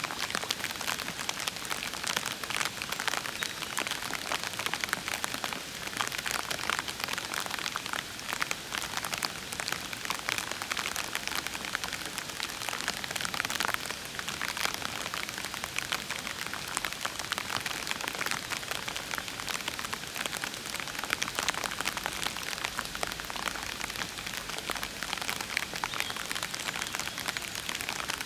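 Steady gentle rain falling on leaves and puddles, a dense patter of many small drops.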